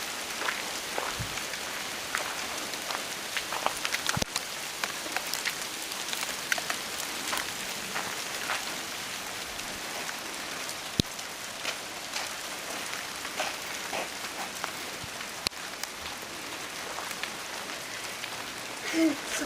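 Hail falling: a steady hiss of pellets with many sharp ticks as they strike hard surfaces.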